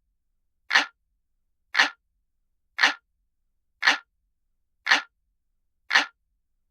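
Looped clock ticking sound effect, like a traditional analog clock: one sharp, identical tick about every second, with silence between ticks.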